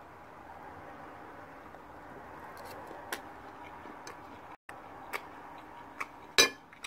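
A person eating pancake: noisy chewing with small wet mouth clicks over steady breathing, the noise put down to bad sinuses. A sharper click comes near the end.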